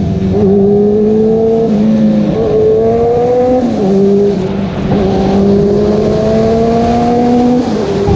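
Superbike engine accelerating through the gears, its pitch climbing steadily and then dropping abruptly at each of several upshifts.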